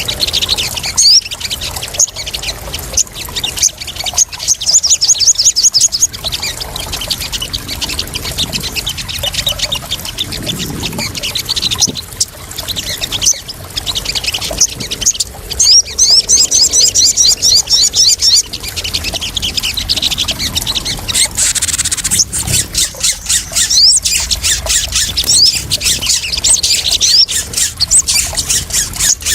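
Sogon bird calling in rapid series of short, high-pitched chirps and trills, over a steady sound of splashing water.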